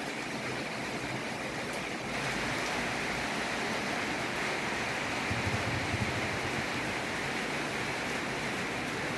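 Heavy rain pouring down, a steady hiss that grows louder about two seconds in.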